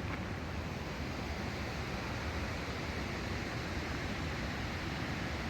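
Steady outdoor rushing noise with a low rumble underneath.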